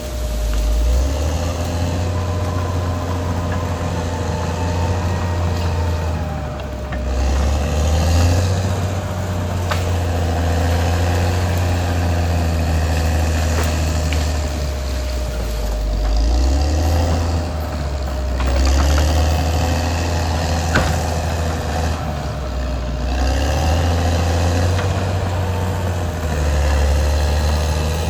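Caterpillar D6R XL bulldozer's diesel engine working under changing load, its note swelling and easing every few seconds, with a steady whine above it and a few sharp clanks.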